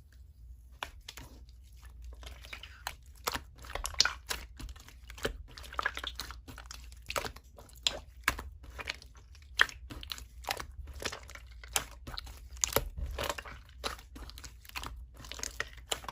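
Slime squished and kneaded by hand, making irregular sticky pops and crackles, several a second, over a low steady hum.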